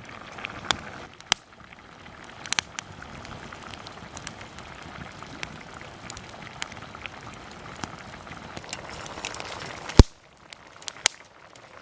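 A lidded pot of rice boiling over a campfire, bubbling and spitting in a steady hiss, with scattered small crackles and one sharp crack about ten seconds in. This is the boil-over stage of cooking rice, before the water boils off and the pot goes quiet.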